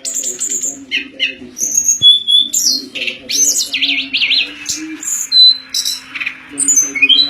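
Tledekan songbird singing a fast, varied song of high whistles, chirps and rapid warbling trills, with a fainter low steady hum underneath.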